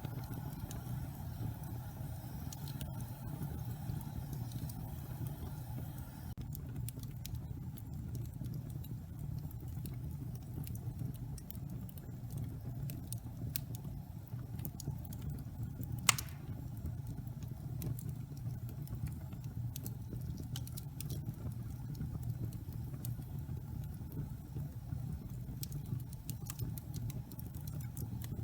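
Log fire burning in a fireplace: a low steady rumble of flames with scattered crackles, and one loud pop about halfway through.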